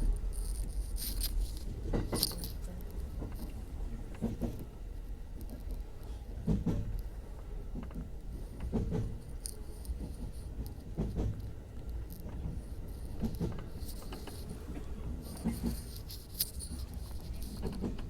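Electric commuter train running, heard from inside the car: a steady low rumble, with the wheels knocking over rail joints about every two seconds. Brief high-pitched squeals come and go, most at the start and near the end.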